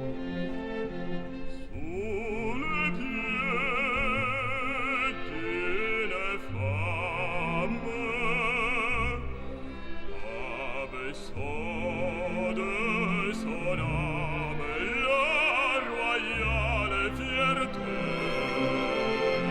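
Operatic singing with strong vibrato over an orchestral accompaniment: classical background music.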